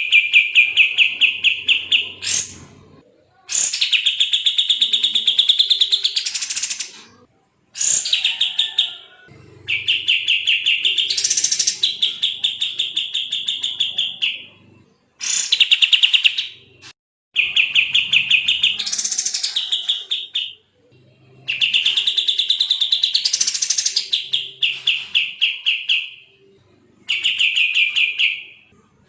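Kapas tembak songbird singing in a fast, dense run of rapid-fire trills: bouts of quickly repeated high notes, each two to four seconds long, separated by short pauses, some bouts rising in pitch towards the middle.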